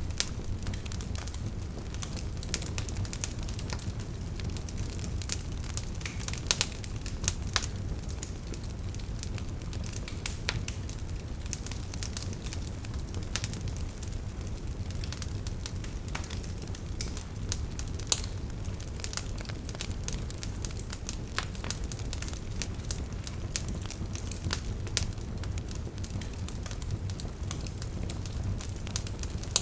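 Wood campfire burning with a steady low rumble and frequent, irregular crackles and pops of burning firewood.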